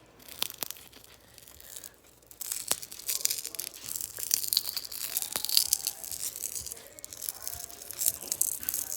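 Cracked glass phone screen protector being peeled and broken apart by hand: a few sharp snaps, then from about two seconds in a dense crackling of small glass pieces breaking and the film tearing.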